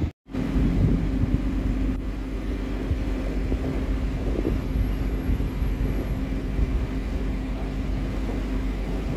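Heavy truck's diesel engine running steadily with a low rumble and a held hum, after a brief cut-out of sound just after the start.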